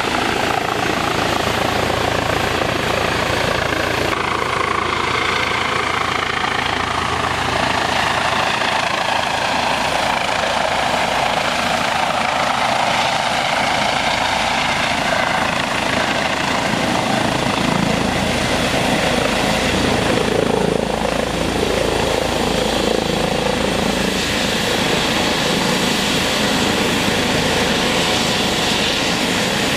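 Eurocopter EC135 helicopter running close by: a steady, loud rotor and turbine noise, with a faint whine that drifts in pitch now and then.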